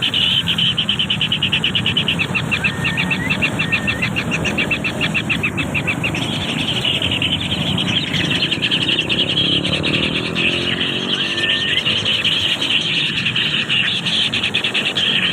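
A motor vehicle engine running, its pitch rising for a few seconds in the second half, under a fast, even high-pitched pulsing buzz and a few short rising chirps.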